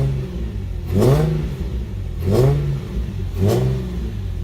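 Nissan 350Z's VQ35DE V6, breathing through 370Z headers, resonated test pipes and a Nismo exhaust, revved in short blips from idle: about four quick rises and falls in pitch, roughly one a second, settling back to a steady idle near the end.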